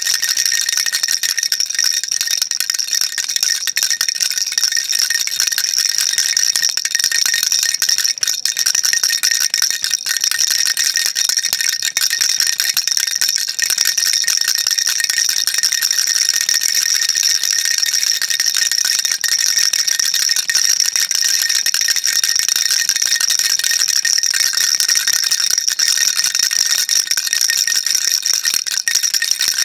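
Baby rattle shaken continuously, a steady dense high-pitched rattling without pauses.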